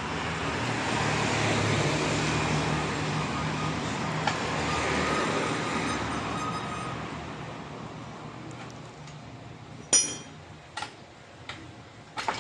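A passing road vehicle: engine hum and road noise swell and then fade away by about eight seconds in. Near the end come a few sharp metallic clinks.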